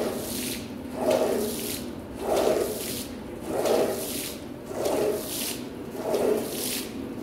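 Regular wet strokes across a water-soaked rug during washing, about one every 1.2 seconds, with water squishing and swishing at each stroke.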